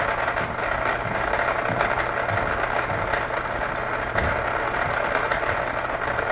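Workshop machine running steadily: an electric motor with a constant low hum and a dense, rattly hiss.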